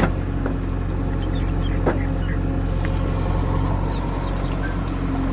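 Diesel engine of a JCB 3DX backhoe loader running steadily, with two sharp knocks, one at the start and one about two seconds in.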